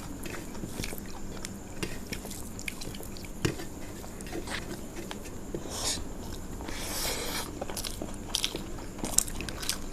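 Close-miked eating: a person chewing and crunching food with many small wet clicks, and a longer crunch about seven seconds in.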